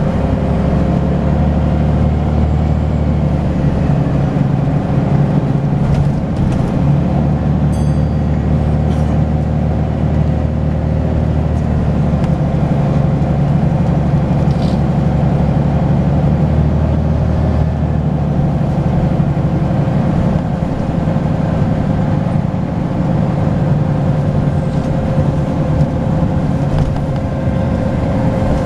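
Volvo B10BLE bus engine running under way, its low note shifting slightly with speed, with a steady high turbo whistle over it.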